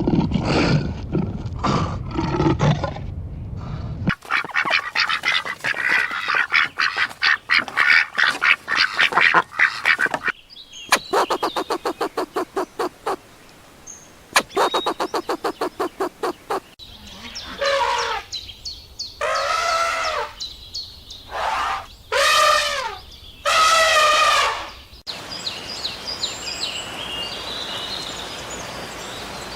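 A string of different animal calls edited one after another, mostly birds. Dense calls come first, then a fast, even run of pulsed calls, then a series of long calls with bending pitch, and faint high chirping near the end.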